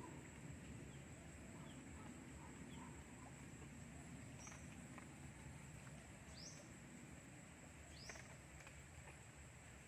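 Quiet outdoor ambience with a steady high whine. A bird gives a short, high chirp falling in pitch three times in the second half, with a few fainter chirps earlier.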